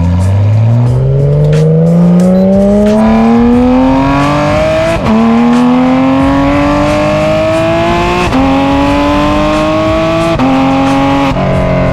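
Porsche 911 GT3 RS's naturally aspirated flat-six, breathing through Dundon street headers and muffler, accelerating hard through the gears. The note climbs steadily in each gear and drops sharply at quick upshifts about five, eight, ten and eleven seconds in.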